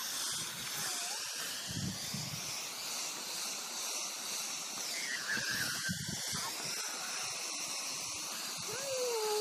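Water spraying from a garden hose: a steady hiss, with a few short whining glides about halfway through and again near the end.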